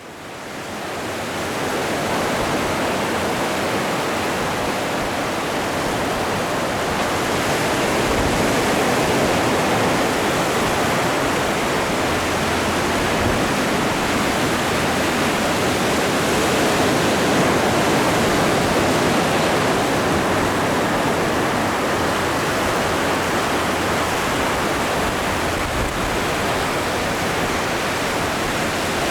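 Ocean waves breaking and washing on the shore: a continuous rushing surf that fades in over the first couple of seconds, then holds steady.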